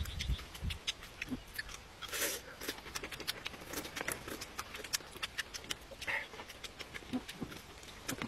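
A man biting and chewing food: irregular crunches and mouth clicks, with two longer noisy sounds partway through.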